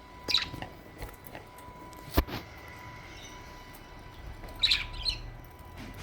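Budgerigar chirping in two short bursts, about half a second in and again near the end, with a single sharp click about two seconds in.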